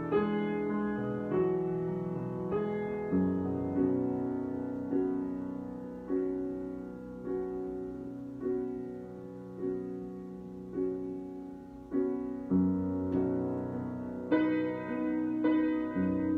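Solo piano improvisation: slow chords struck about once a second, each left to ring and fade before the next, growing fuller and brighter near the end.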